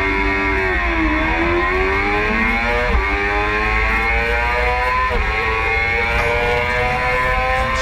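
Yamaha R6 600 cc inline-four engine accelerating hard off the race start. Its pitch climbs steadily through each gear and drops at upshifts about 1, 3 and 5 seconds in, over low wind rush.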